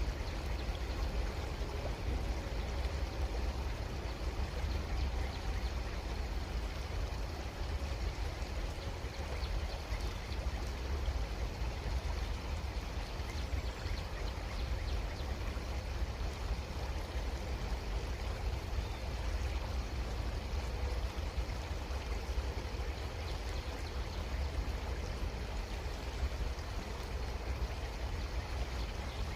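Creek water flowing steadily, with an even rushing and gurgling hiss over a steady low rumble.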